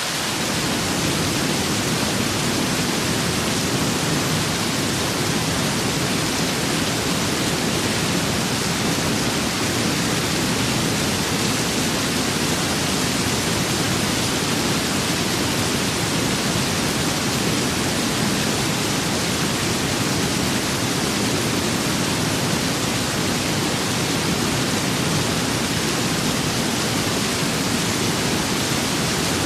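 Steady rain and wind ambience: a dense, even rushing hiss with no separate drops, gusts or pauses. A fuller low rumble fills in right at the start.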